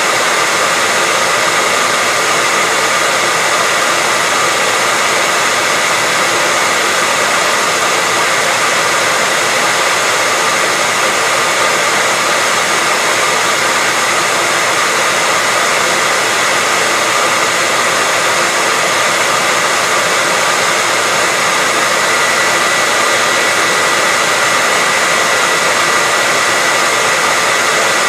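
Hair dryer running continuously at a steady pitch, a loud even hiss with a faint whine near the top, used as white noise.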